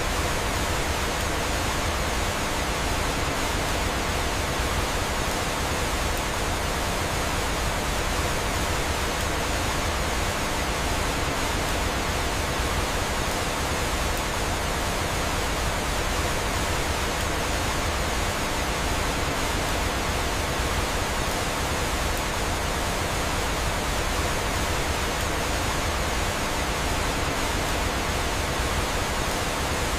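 Steady rushing of falling water, like a waterfall: an even, unbroken hiss.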